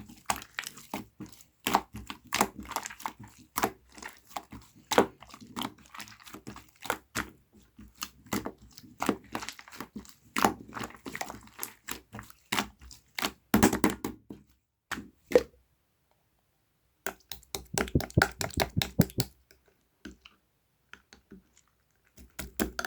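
Slime being squeezed and worked by hand, giving rapid irregular crackling clicks and pops. The pops stop for about a second and a half partway through, then come back in a short cluster and thin out.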